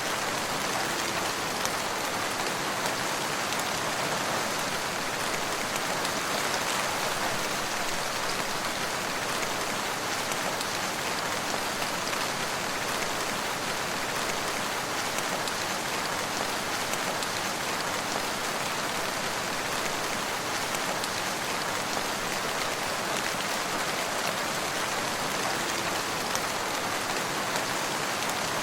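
Steady rain falling on surfaces, an even, unbroken hiss of many drops.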